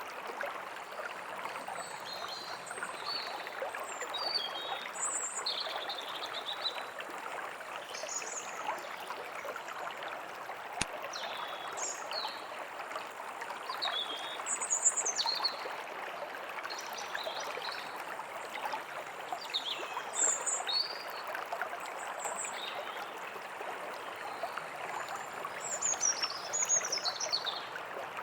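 Forest stream running steadily, with songbirds chirping and whistling in short phrases over it throughout.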